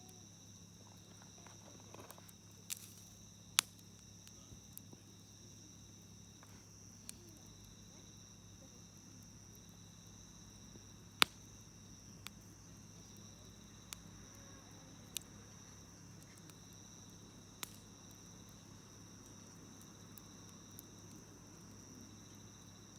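Campfire burning, with scattered sharp pops and crackles of the wood every few seconds, the loudest about eleven seconds in. Behind it a faint, steady, high insect chorus keeps going.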